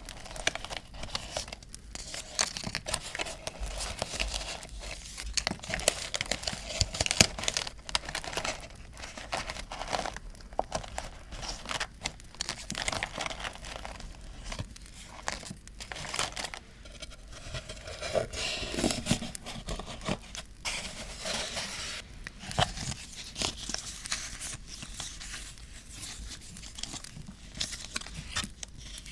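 Paper being handled for scrapbooking: crinkling, rustling and tearing of paper pieces, with many small irregular crackles and taps.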